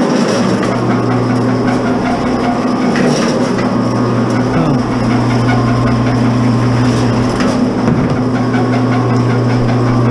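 Electric wire stripping machine running with a loud, steady hum as BX cable is fed through its rollers to strip the outer jacket; its tone briefly wavers twice.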